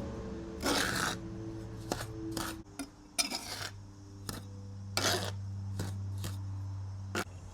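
Steel trowel scraping through mortar on a board, mixing dry mortar with water, in about nine irregular strokes, some short and some drawn out.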